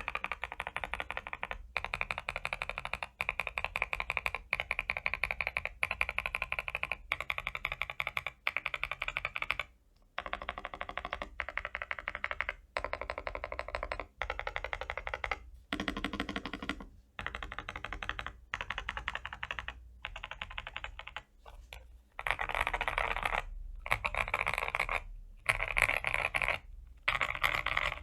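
Typing in quick bursts with short pauses between them on a Feker iK75 mechanical keyboard with lubed Gazzew Boba U4T 62g tactile switches, PBT keycaps, and case and PCB foam.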